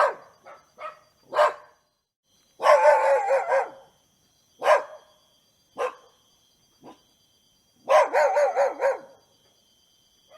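Dog barking: single barks spaced out, with two quick strings of barks, about three seconds in and near the end.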